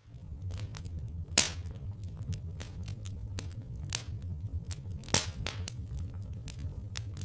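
Wood fire crackling, with irregular snaps and pops over a low steady rumble. Two pops stand out, one about a second and a half in and one about five seconds in.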